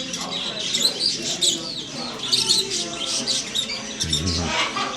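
Many caged birds chirping and calling at once, a dense chatter of short high chirps, with a brief lower call about four seconds in.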